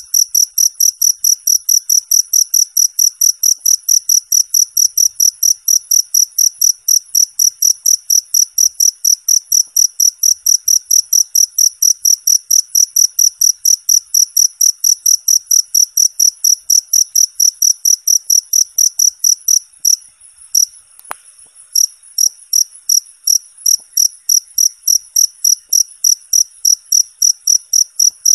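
Cricket chirping in a fast, even, high-pitched pulse of about four chirps a second, clean and clear, with a short break about twenty seconds in.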